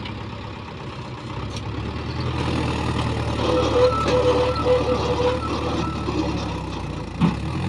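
Mahindra 585 DI tractor's diesel engine pulling hard under a fully loaded trolley, growing louder about a second in and easing off near the end. A short knock sounds near the end.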